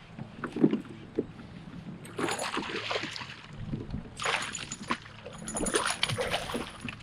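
Kayak paddle strokes splashing in the water, a few strokes each about a second long, with a few low knocks against the hull in the first second.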